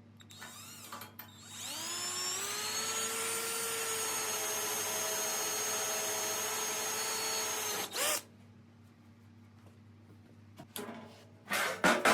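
Electric drill spinning up with a rising whine, then running steadily for about six seconds before stopping suddenly, drilling a weep hole in the steel dirt bike frame. A few clicks and knocks follow near the end.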